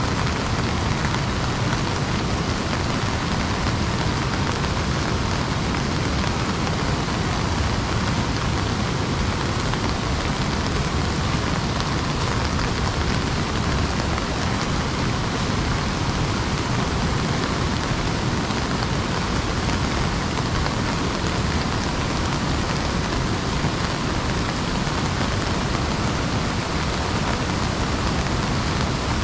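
Steady rain falling on an umbrella overhead, an even hiss that does not let up.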